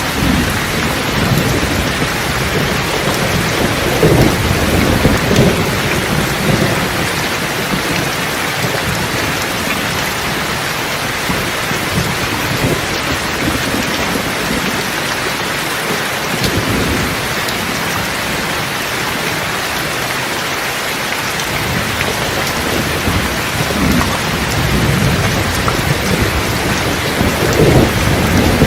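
Steady rain falling with thunder rumbling, a long low roll in the first few seconds and another building near the end.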